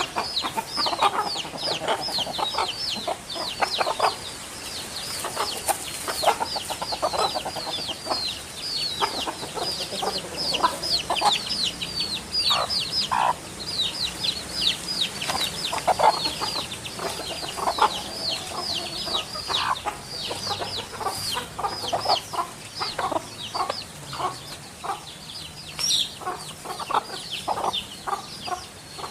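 Dense chorus of bird calls: many quick high chirps, each falling in pitch, several a second throughout, mixed with lower clucking notes.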